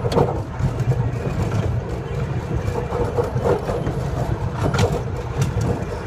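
Miniature park train running, heard from a passenger car: a steady low engine and rolling rumble with scattered light clicks from the wheels and cars.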